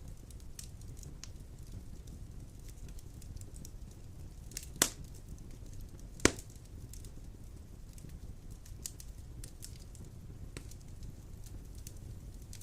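Fire burning in a fireplace: a low steady rumble with scattered small crackles, and two sharp loud pops about a second and a half apart near the middle.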